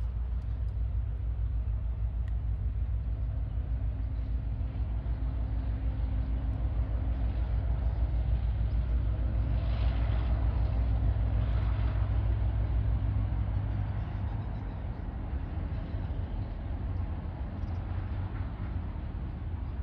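Tasrail diesel-electric freight locomotives running with a steady deep engine rumble. It grows louder until about two-thirds of the way through, then eases a little.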